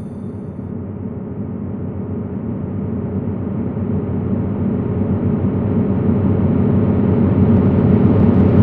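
A vehicle engine rumbling steadily, growing gradually louder.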